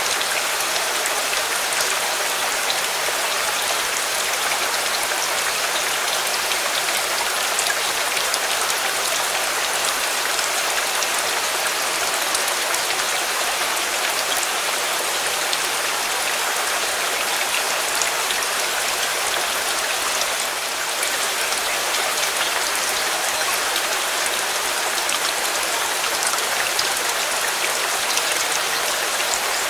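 Steady rain, with many small drop impacts ticking through it and a slight dip in level about 20 seconds in.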